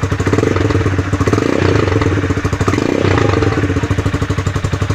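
Rusi Classic 250 motorcycle running at idle through its modified stock muffler, silencer removed and holes drilled in it, with a steady, even exhaust pulse and a few slight swells. The exhaust note is fairly big and round.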